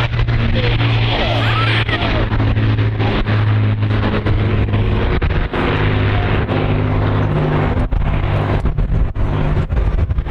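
Rolls-Royce Merlin piston aero engine of a BBMF warbird flying past, a loud steady drone whose pitch shifts several times.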